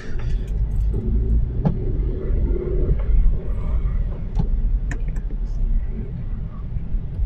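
Steady low rumble of a manual, two-wheel-drive car's engine and tyres heard from inside the cabin while driving, with a few faint clicks.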